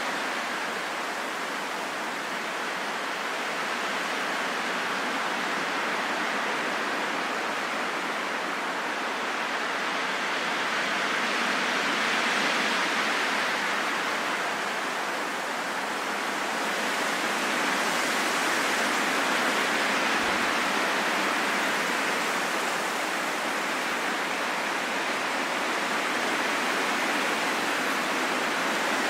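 Steady rain falling in a forest, an even hiss that swells and eases gently.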